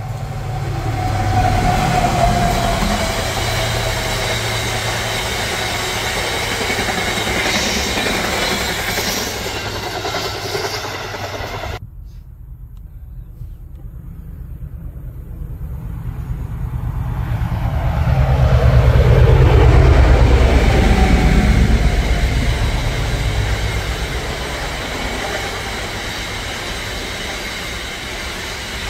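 A train passing at speed, with a tone in its sound dropping slowly in pitch as it goes by. About twelve seconds in, the sound cuts off abruptly. A second train then approaches, passes loudly about twenty seconds in, and fades away.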